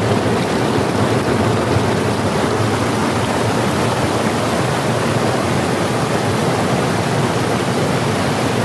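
Rushing river water: a steady, loud hiss of flowing water.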